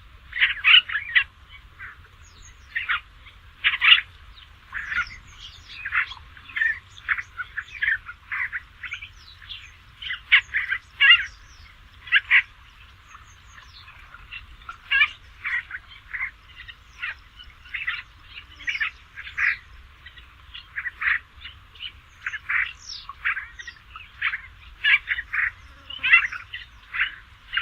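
Basra reed warbler singing: a long, continuous run of short chattering notes, several each second, broken by brief gaps between phrases.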